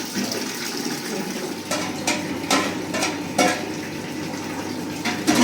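Water running, with a few short clinks, like dishes or metal knocked together, about halfway through.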